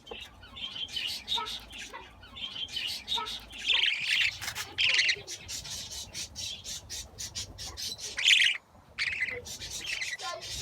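Budgerigars chattering with many short, harsh squawks and chirps, the loudest about four, five and eight seconds in.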